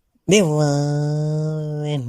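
A man's voice holding one long, steady, chant-like note for about two seconds, starting a quarter second in after a brief silence.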